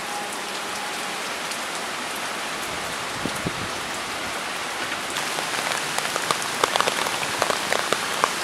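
Heavy rain from Hurricane Irma falling steadily. From about halfway through, more and more separate drops strike close by as sharp taps.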